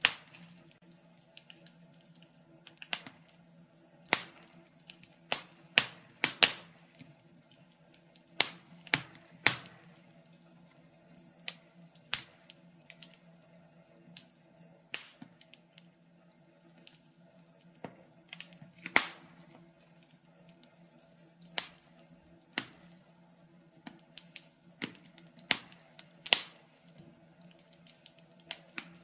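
Wood fire crackling in a fireplace: irregular sharp pops and snaps, some loud, every second or so over a faint low hum.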